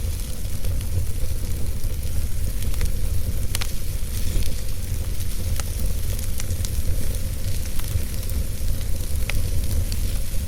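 Wood fire burning in a fireplace: a steady low rumble with scattered crackles and pops, a few sharper pops standing out.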